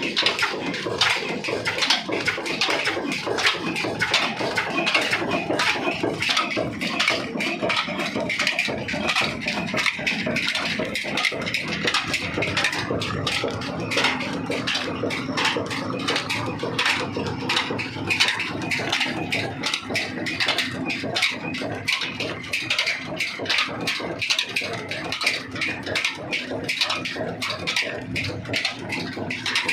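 Old Ruston Hornsby slow-speed diesel engine running steadily, with an even, rhythmic clatter of knocks.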